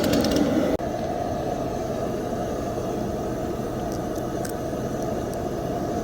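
A rapid hammering power tool ends within the first second. After an abrupt break it gives way to a steady low engine rumble of track machinery.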